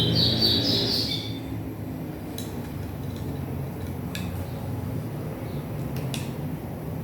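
A few sharp clicks and clinks of small parts being handled as a stereo is taken apart, spaced about two seconds apart. A bird chirps briefly in the first second.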